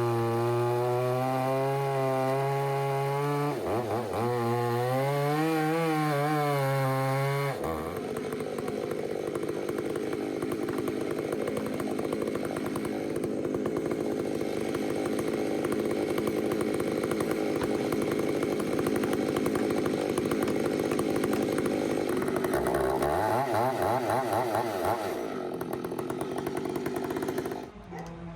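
Chainsaw running at full throttle, cutting through a large honey locust trunk section, its pitch wavering as it bogs under load. It cuts off near the end.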